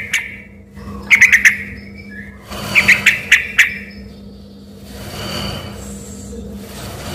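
Yellow-vented bulbul (trucuk) singing: three loud bursts of quick, sharp notes in the first four seconds, then a quieter stretch, over a steady low hum.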